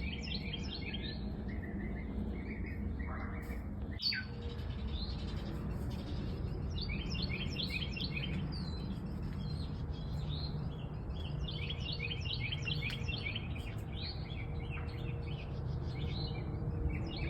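A small songbird singing: bouts of rapid, high chirping notes repeated every few seconds, over a steady low rumble of background noise.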